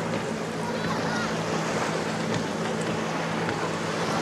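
Boat engine running with a steady low hum, under a constant rush of water and wind.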